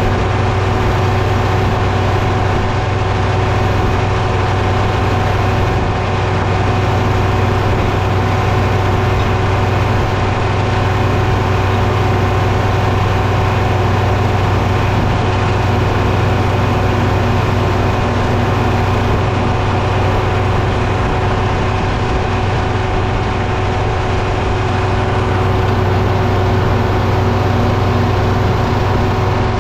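Diesel engine running steadily at constant speed, a loud low hum with a few steady tones above it and no changes in load.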